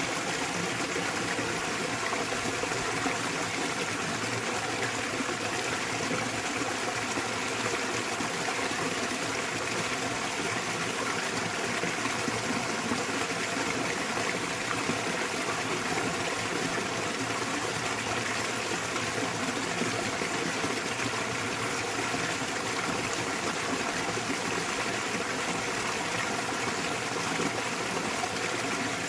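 Small waterfall splashing into a mountain stream: a steady, unbroken rush of falling and flowing water.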